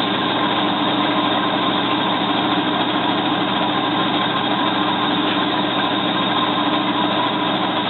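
Bosch WFF2000 front-loading washing machine on its spin at 900 rpm: a steady mechanical hum and whine of the motor and drum, holding an even speed.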